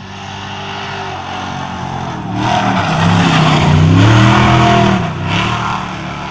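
Trophy Truck Spec race truck engine approaching and going past at speed. It is loudest from about two and a half to five seconds in, its pitch rising and falling as it revs and passes, then fading.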